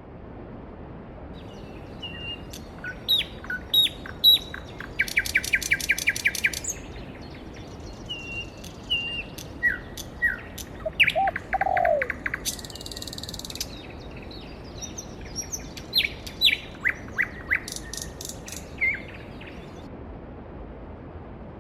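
Songbirds chirping and calling over the steady rush of a mountain stream, with a fast trill about five seconds in and another around eleven seconds.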